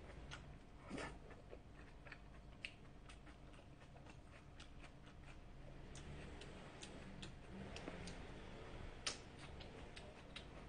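A person chewing a mouthful of food, with irregular small mouth clicks and smacks and one sharper click about nine seconds in.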